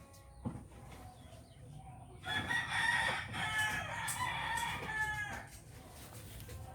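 A rooster crowing once: one drawn-out call of about three seconds, starting a couple of seconds in.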